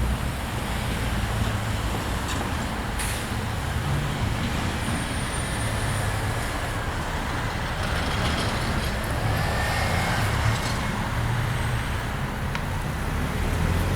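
Intermodal freight cars rolling past: a steady low rumble of steel wheels on rail, with a couple of sharp clicks and a few faint high squeals.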